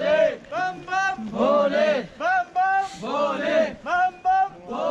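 Men's voices chanting in rhythm, short phrases rising and falling in pitch, about two a second.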